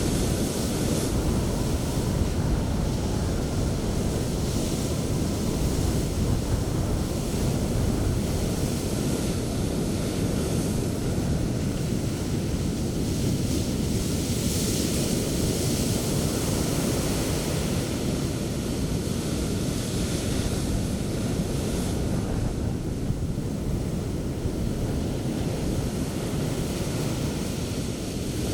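Sea surf breaking on a beach: a continuous rush of waves, with the hiss swelling as breakers come in, about 6 and 15 seconds in. A low rumble of wind on the microphone runs underneath.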